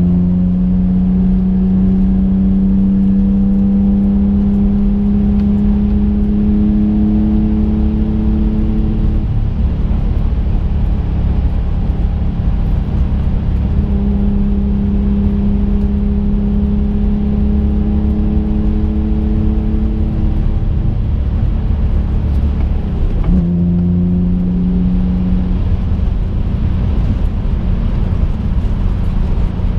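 Twin-turbocharged 3.5-litre V6 of a modified 2005 Infiniti G35 coupe, heard from inside the car on the road. The engine note holds a steady pitch that climbs slightly, gives way twice to road and tyre rumble, and comes back suddenly near the end.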